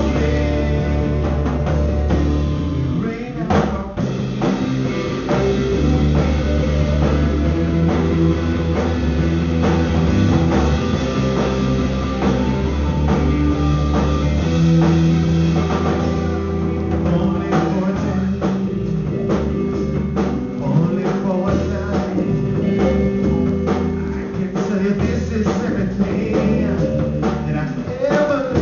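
Live band jamming a rock song, with drum kit, electric guitar and bass playing steadily, the music dropping briefly a few seconds in.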